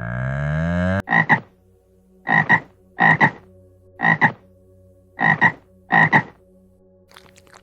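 A frog croaking six times at uneven intervals, each croak a quick double note. It follows a loud rising sweep of sound that cuts off sharply about a second in.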